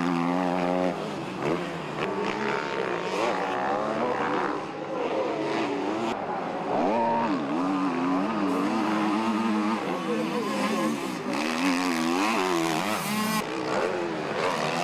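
Motocross bikes racing, their engines revving up and down again and again as they accelerate and shift through the corners of the track.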